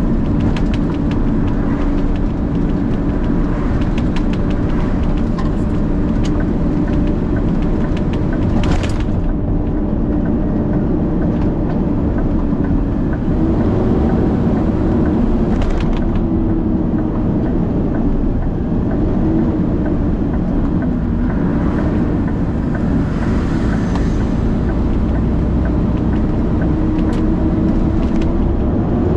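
Big truck's diesel engine running while driving at around 30 mph, its note wavering, dipping and then rising near the end as the truck picks up speed, with light clicks and rattles over it.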